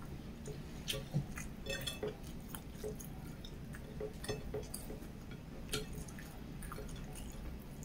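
Close-up eating sounds: wet chewing and lip smacks with a scatter of small, irregular clicks, and soft squishing of rice pressed together by hand on a plate.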